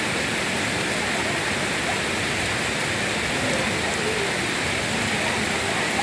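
Steady rain falling, an even unbroken hiss with no pauses.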